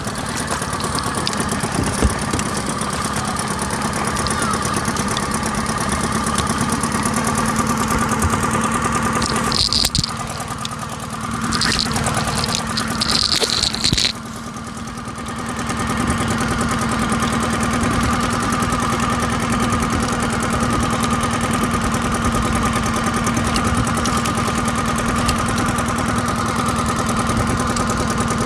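Small boat's engine running steadily. About ten seconds in its note fades and dips for a few seconds, with some short hissing sounds, then it picks back up to a steady run.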